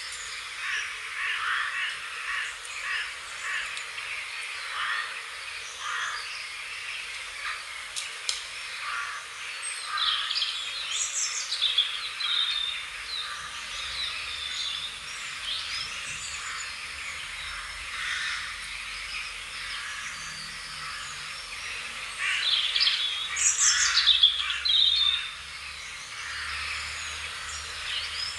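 Wild birds calling and singing: a run of short calls repeated about twice a second, then bursts of higher chirps and trills about ten seconds in and again, loudest, a little after twenty seconds.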